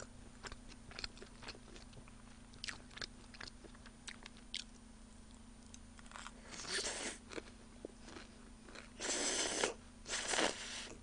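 Close-miked eating sounds: soft wet mouth clicks while chewing, then three louder bursts of crunching, the longest a little after 9 seconds in.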